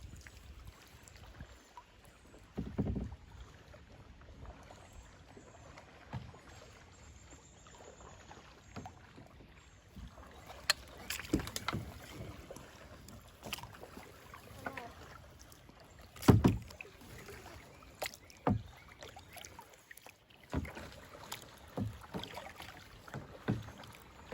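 Kayak paddling: irregular paddle strokes in the water with scattered sharp knocks, one louder knock about sixteen seconds in, over a low steady rush of water and wind.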